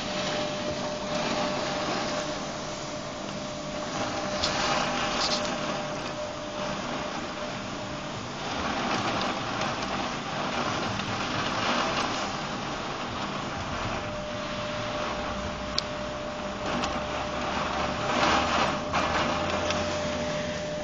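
Steady rain falling, an even hiss with a few sharp ticks of drops, and a faint steady tone for the first several seconds and again through most of the second half.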